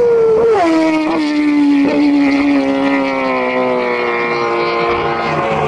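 Superbike racing motorcycle engine, loud and high-revving. Its note drops in three quick downshifts in the first two seconds, then falls slowly and steadily as the bike runs on.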